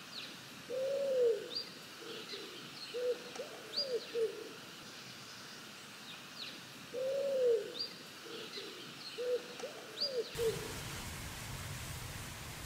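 A pigeon cooing: two phrases, each opening with a long note followed by several shorter coos. Faint high chirps of small birds sound in between. About ten seconds in, a steady hiss comes up underneath.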